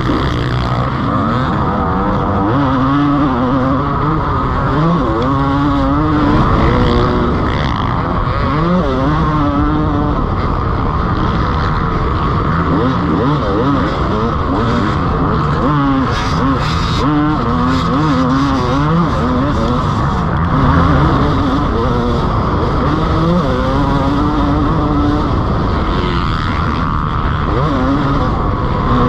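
Dirt bike engine revving up and falling off over and over as the motocross bike is ridden hard around a rough track, with wind rushing over the helmet-mounted microphone.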